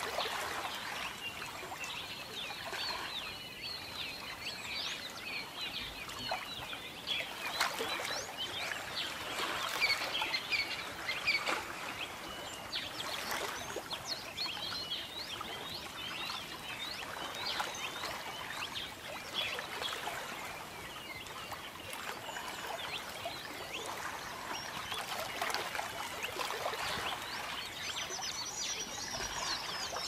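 Many small birds chirping and twittering together, a busy overlapping stream of short high calls and quick rising and falling notes, over a soft steady hiss.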